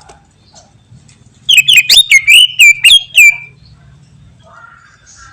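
Cucak ijo (greater green leafbird) singing: a loud, rapid string of about eight sharp whistled notes, each dropping steeply in pitch, lasting about two seconds from a second and a half in.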